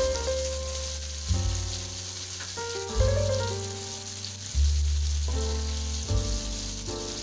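Garlic, shallots and chilies sizzling in oil in a wok, a steady hiss, under background music whose low bass notes change about every second and a half.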